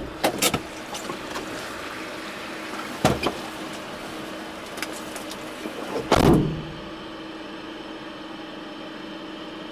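Four-wheel-drive vehicle's engine running steadily, with a few short knocks and a louder thump about six seconds in.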